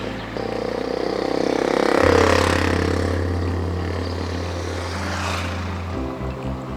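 A motor vehicle passing close by, rising to its loudest about two seconds in and then fading, over background music with held bass notes that change pitch twice and a pulsing beat near the end.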